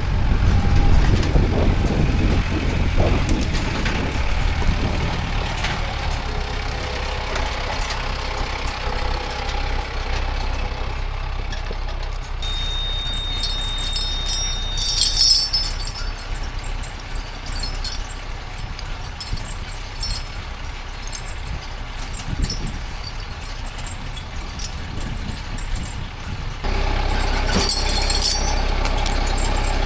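A log-hauling machine's engine runs steadily. There is a thin steady whine for a few seconds around the middle, metal clanks around the middle and again near the end, and the engine gets louder about four seconds from the end.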